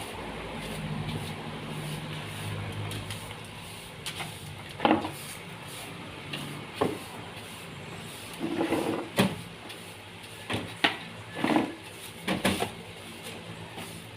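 A run of irregular knocks and bumps, like wood being handled and set down during carpentry work, starting about five seconds in. Under the first several seconds there is a low steady engine hum.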